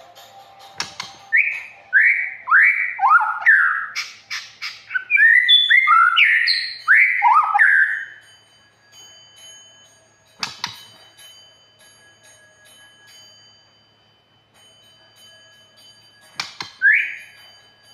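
A songbird sings a fast run of loud, clear whistled notes, many sliding down in pitch, for about seven seconds. It then falls mostly quiet, with a few sharp clicks and one more whistled note near the end.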